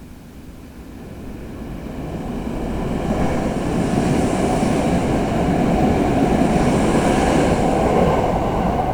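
Electric train passing through a station without stopping: its running noise grows from about a second in and stays loud from about three seconds in.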